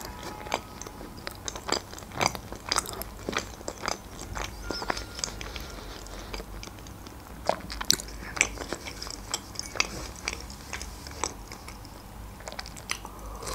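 Close-miked chewing of a mouthful of pasta in cream sauce: soft, wet mouth clicks and smacks, irregular and repeated.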